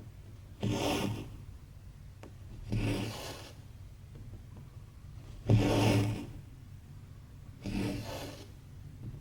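Embroidery thread being drawn through cross stitch fabric by hand, a rasping pull about every two seconds, four strokes in all, the third the loudest.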